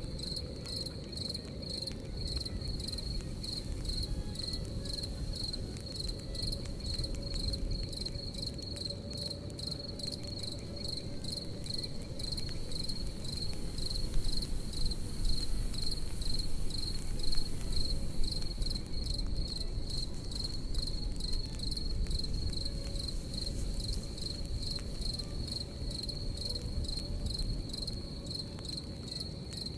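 Crickets chirping in a steady, even high-pitched pulse over a low rumbling fire, with a few louder crackling pops near the middle.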